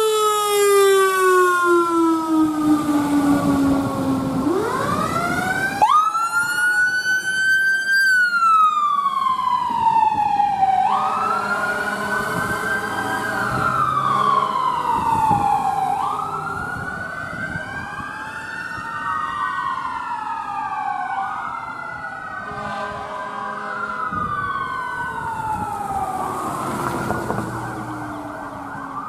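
Emergency vehicle sirens wailing, several overlapping and rising and falling in slow cycles every two to three seconds. Near the start a deeper siren tone glides steadily down before the wails take over.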